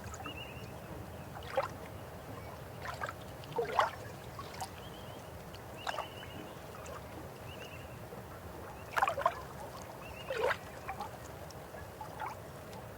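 River water running steadily, with irregular gurgles and splashes breaking through it, loudest twice about four seconds in and in a cluster near the end. Faint short high chirps recur in the background.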